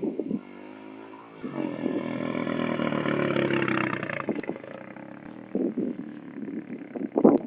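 Motocross dirt bike engine revving up and running hard, loud for a few seconds from about one and a half seconds in, then dropping away.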